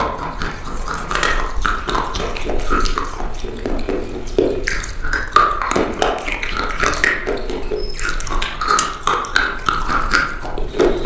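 Old, dried-out soap being crushed and cut, with a dense, continuous crunching and crackling and some squeaky notes.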